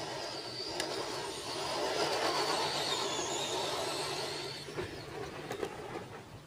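Madgear Desert Wolf short-course RC truck driving by, its electric motor whining up and down in pitch over tyre noise. It is loudest a couple of seconds in and fades away after about four and a half seconds.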